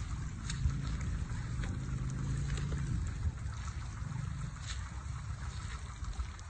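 Water trickling and lapping, over a steady low rumble.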